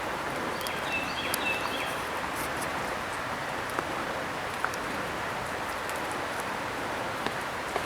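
Steady hiss of rain-soaked woods with a few sharp ticks like water dripping, and a brief high chirp about a second in.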